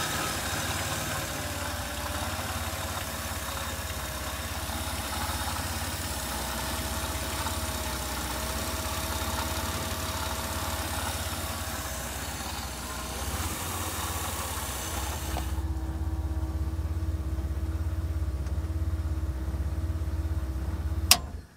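Transplanted 1998 Camaro engine idling steadily, running smoothly on fresh oil and fuel after years of sitting. A single sharp click comes just before the end.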